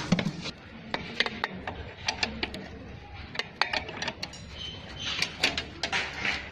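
Spanner working a 17 mm nut on a vintage Lambretta scooter, with irregular sharp metallic clicks and clinks of tool on metal.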